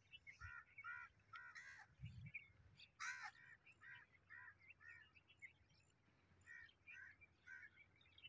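Faint bird calls: a run of short calls repeating about twice a second, with one louder call about three seconds in.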